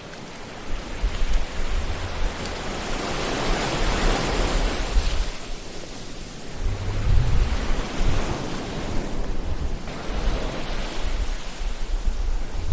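Ocean surf: waves breaking and washing in, swelling twice, with a low rumble underneath.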